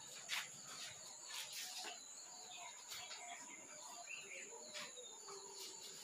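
Faint birds chirping, with a few soft clicks and a steady thin high-pitched tone underneath.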